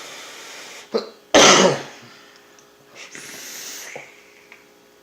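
A person coughs once, loudly and sharply, about a second and a half in, between stretches of breathy hissing before and after.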